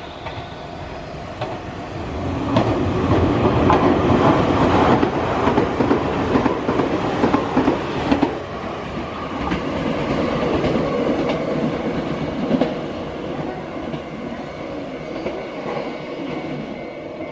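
Nankai 30000 series electric limited express passing through a station without stopping. The running noise builds about two seconds in and stays loud for several seconds, with wheels clacking over rail joints, then drops off sharply around eight seconds in. A quieter, steadier train running sound follows and fades near the end.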